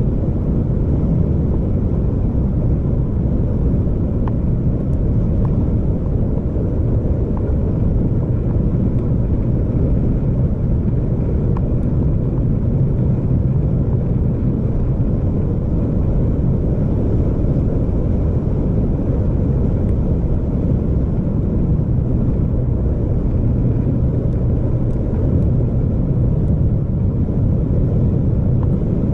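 Steady low rumble of a vehicle on the move, engine and road noise running evenly with no change in pace.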